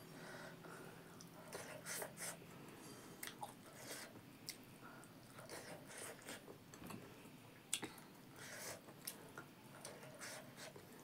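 A person chewing a mouthful of rice and buffalo meat, with many short, irregular mouth smacks and clicks.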